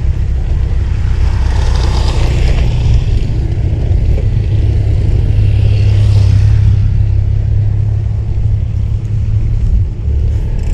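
Wind rumbling on the microphone of a camera on a moving bicycle, with road traffic swelling past about two seconds in and again around six seconds.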